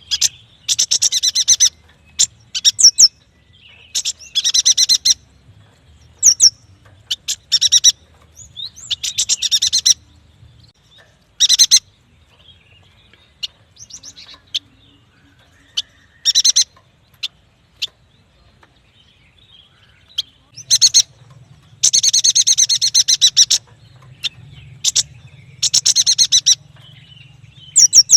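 Yuhina singing in bursts of rapid, high chattering chirps, each lasting about half a second to a second and a half, separated by short pauses. The longest, densest run comes about three quarters of the way through.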